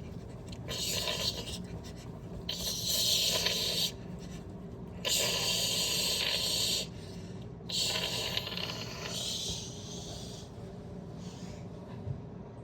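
Washing machine running with a steady low hum, broken by five hissing, swishing bursts of one to two seconds each. The load is unbalanced, with socks bunched to one side, so the machine shakes.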